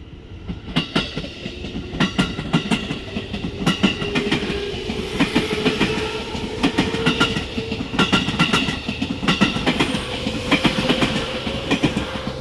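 Electric commuter train passing close by, its wheels clacking over the rail joints in quick repeated groups above a steady running drone. It swells up about a second in and dies away near the end as the last cars go by.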